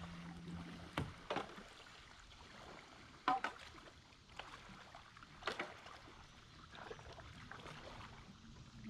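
Kayak paddle strokes on a river, faint, with a few short splashes or knocks: about a second in, at about three seconds, and at about five and a half seconds.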